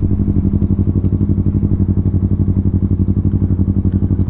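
Yamaha R3's 321 cc parallel-twin engine idling steadily through an Akrapovic full-system exhaust: an even, rapid pulsing note at constant pitch.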